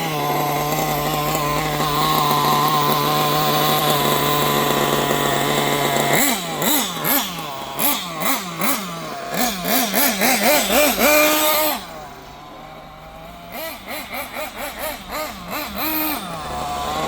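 Kyosho nitro RC buggy engine running at a steady idle, then revved in quick repeated throttle blips for several seconds. It drops quieter briefly, blips again and settles back to a steady idle near the end, running smoothly on its test run.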